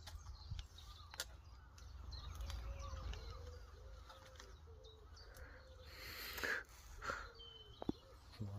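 Quiet outdoor ambience: a steady low rumble with faint bird calls and scattered clicks, and a brief swell of hiss about six seconds in.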